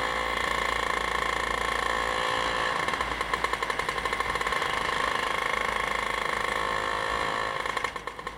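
A vehicle engine running steadily with a rapid, even beat, dropping in level shortly before the end.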